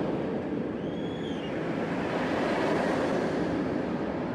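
Steady wind noise on the microphone, with one faint high whistle that rises and falls about a second in.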